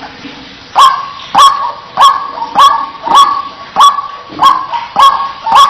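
White-breasted waterhen (ruak-ruak) calling: after a quieter opening, a steady run of loud, harsh 'kwaak' calls, nearly two a second.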